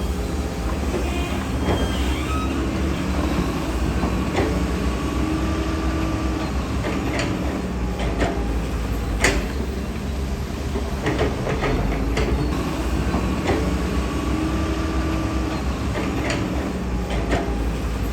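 Heavy diesel earthmoving machinery running steadily, with scattered sharp metallic clanks and knocks and a whine that comes in twice, around a third of the way through and again after the middle.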